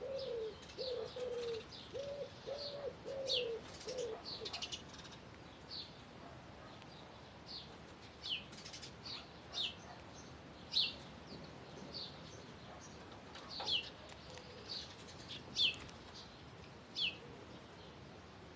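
A dove cooing in a run of low, even notes that stops about four seconds in, while a small songbird repeats short high chirps that drop in pitch, one every second or two.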